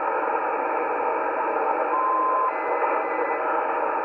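Steady hiss of band noise from an Icom IC-718 HF receiver tuned to the 40-meter amateur band between voice transmissions, with the narrow, tinny sound of a single-sideband receiver. About two seconds in, a short steady whistle of a carrier tone comes through, followed by a fainter higher tone.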